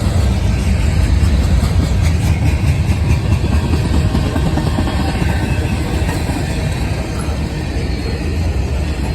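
CSX mixed freight train passing, its cars' steel wheels rolling over the rails in a loud, steady rumble and clatter.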